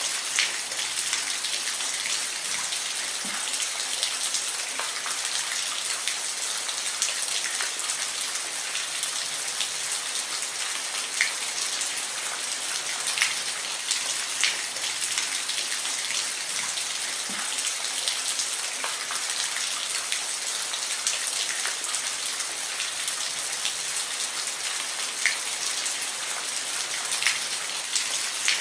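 Steady rain falling, an even hiss with close, distinct drops ticking and splashing on a surface every second or two.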